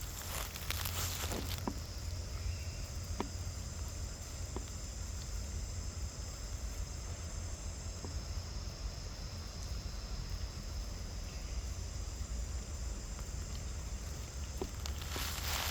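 Steady high-pitched chorus of insects, crickets or cicadas, over a low rumble, with a few faint clicks.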